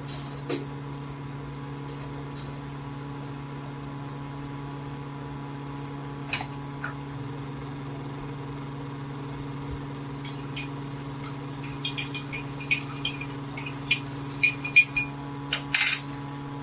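Kitchen clatter: light clinks and taps of utensils and containers over a steady hum. The clinks are few at first and come quickly in the last five seconds.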